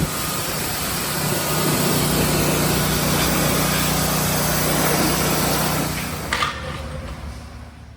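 A Honda CRX engine running at steady high revs, then easing off after about six seconds, with a sharp click, and fading out.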